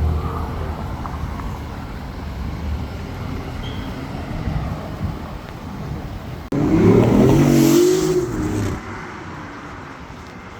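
Street traffic rumbling, then a car engine accelerating hard about two-thirds of the way in, its pitch rising for about two seconds before fading.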